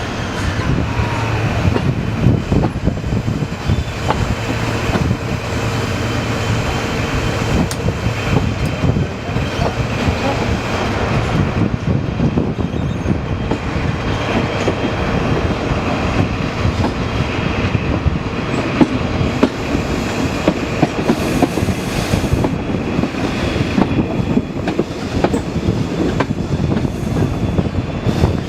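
Train running along the track, the wheels clattering steadily over the rail joints.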